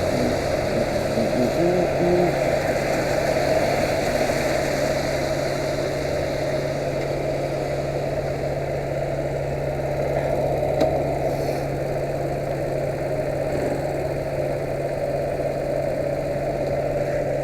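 Yamaha YBR125's single-cylinder four-stroke engine running steadily, with no marked revving.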